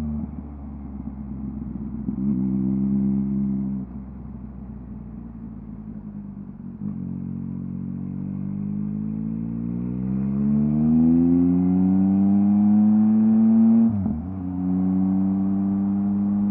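2023 Yamaha MT-09's inline three-cylinder engine through a LeoVince LV Race full exhaust, ridden on the road. It gives short throttle openings and closings, then a long steady rise in pitch under acceleration, broken by a quick upshift about 14 seconds in.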